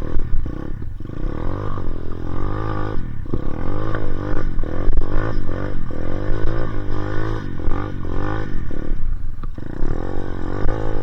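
Dirt bike engine revving under load, its pitch climbing and falling again and again with the throttle, with brief dips where the throttle is let off.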